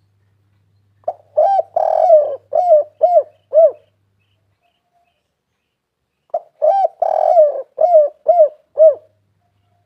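Spotted dove (tekukur) cooing: two song phrases about five seconds apart. Each is a quick run of short arched coos with a longer, drawn-out note near its start.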